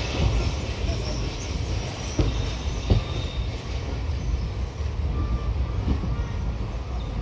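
Passenger train coach running slowly along a station platform: a steady low rumble of wheels on track, with two knocks about two and three seconds in.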